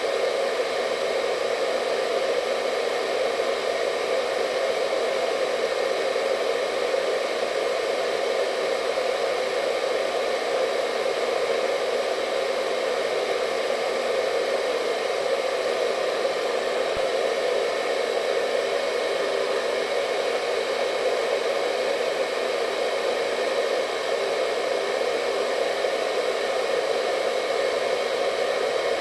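Hair dryer running steadily: an even rushing blow with a faint whine, unchanging in level and pitch.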